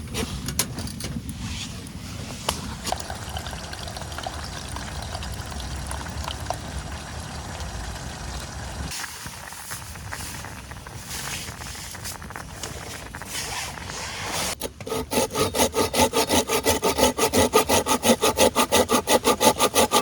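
Hand saw cutting through wood in quick, even strokes, starting suddenly about fifteen seconds in and growing louder. Before it there are only a low rumble and scattered small clicks.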